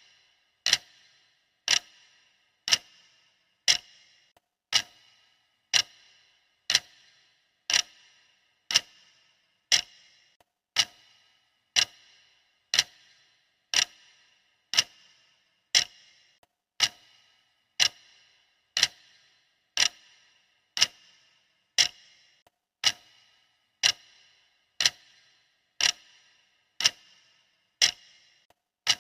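Clock ticking steadily, one sharp tick a second, each with a brief metallic ring after it.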